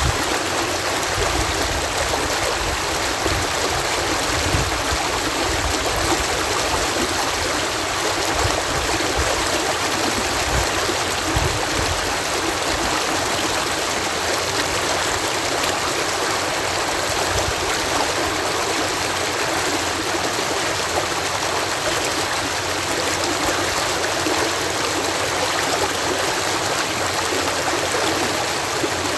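Water cascading over a canal lock gate, a steady rush of falling and splashing water with an irregular low rumble in the first half.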